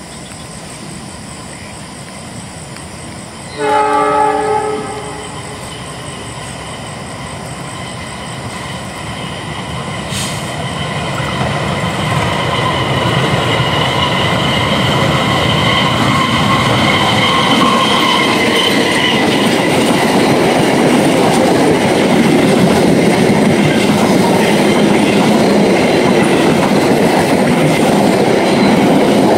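Diesel-hauled passenger train approaching: one horn blast of about a second and a half a few seconds in, then a rumble that builds steadily with a high ringing over it. The coaches then rush past close by at speed.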